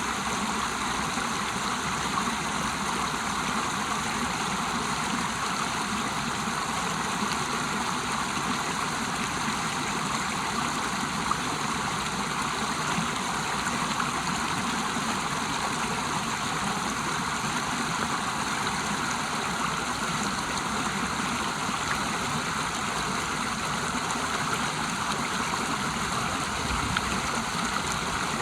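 A river and waterfall rushing steadily, an even, unbroken wash of flowing water.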